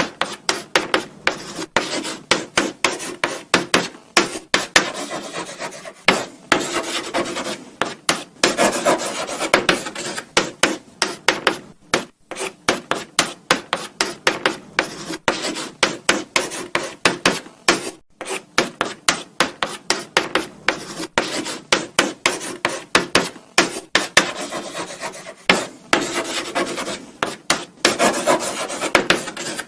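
Chalk writing on a blackboard: quick scratchy strokes and taps, one after another, with stretches of longer continuous scraping.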